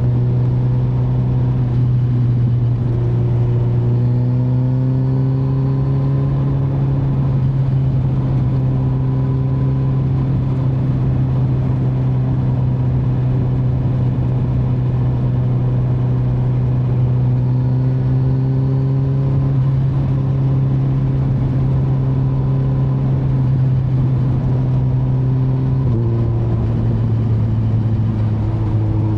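2025 Kawasaki Z900's inline-four engine running steadily under way, its pitch rising slightly about four seconds in and dropping a little near the end.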